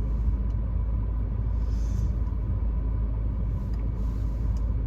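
Steady low rumble inside a moving or idling car, with engine and road noise.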